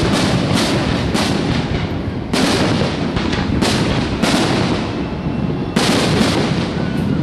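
Aerial fireworks shells exploding in a rapid, uneven series of heavy booms, about eight in all and roughly half a second to a second and a half apart, with a continuous rolling rumble between them.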